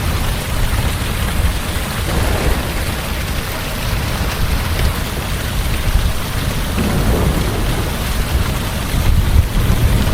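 Heavy rain falling steadily, with a continuous low rumble of thunder under it.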